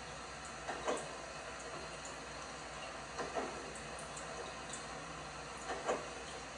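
LG washing machine mid-wash, its drum turning a wet load: about every two and a half seconds a quick double splash and thud as the clothes and water drop, over a steady running hiss.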